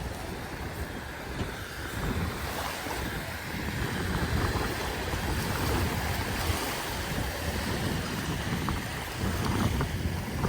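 Sea surf washing onto a beach, with wind buffeting the microphone in low, gusty rumbles.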